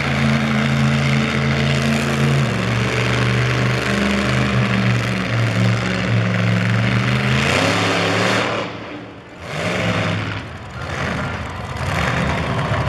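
Monster truck engine running hard, its pitch stepping up and down with the throttle. It eases off about eight seconds in, then picks up again.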